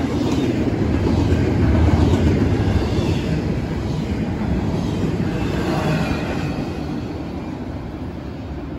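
Double-stack intermodal well cars of a freight train rolling past, a steady rumble of steel wheels on rail. It fades over the last few seconds as the end of the train moves away.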